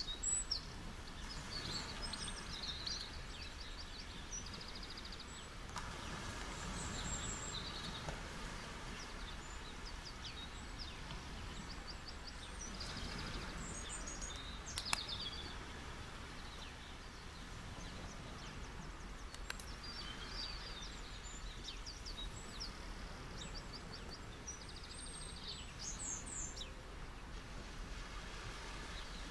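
Gentle sea waves washing onto a beach, a steady hiss that swells and eases, with small birds chirping over it and a single sharp click about halfway through.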